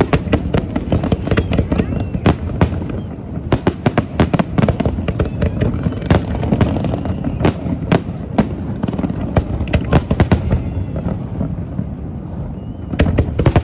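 Fireworks going off in rapid, dense volleys of sharp bangs and crackles over a steady crowd murmur, easing off briefly near the end before another burst of bangs.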